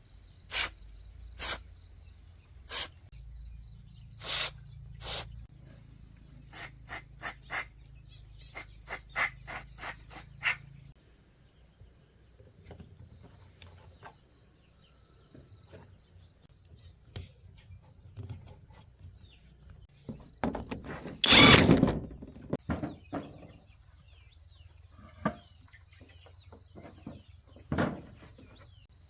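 Crickets chirring steadily and high-pitched, with a scattered series of sharp clicks and taps from hand work, mostly in the first third. About two-thirds through comes a loud rush of noise lasting about a second and a half.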